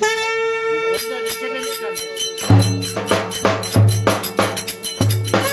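Live Turkish folk music striking up: one long held note over quick clicking percussion, then a heavy bass drum beat comes in about halfway through and the rhythm carries on.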